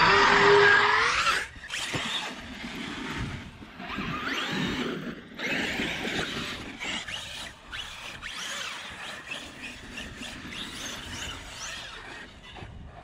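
Electric motor of a large RC monster truck revving with a rising whine, loudest in the first second and a half, then quieter, wavering whines and tyre noise on sand as it drives and jumps.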